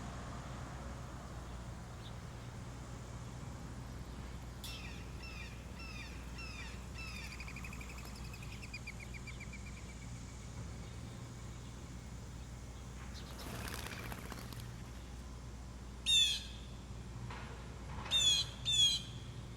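Wild birds at a backyard feeder: a small bird gives a run of quick high chirps that ends in a falling trill. Near the end, a larger bird gives three loud, harsh squawking calls, the last two close together, over a steady low hum.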